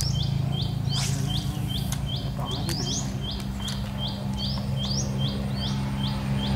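A bird calling a short, high, rising chirp over and over, about three times a second, over a steady low engine drone.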